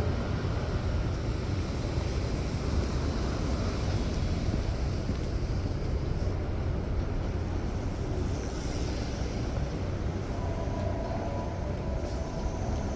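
Street ambience: a steady low rumble of traffic, with a faint steady tone coming in near the end.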